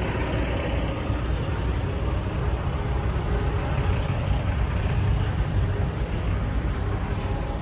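Semi truck's diesel engine running steadily at low speed, a deep even rumble, with a couple of faint clicks.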